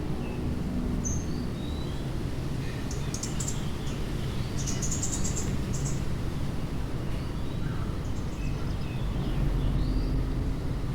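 Small birds chirping in short, high calls, with a quick run of rapid chattering calls about three to six seconds in, over a steady low background rumble.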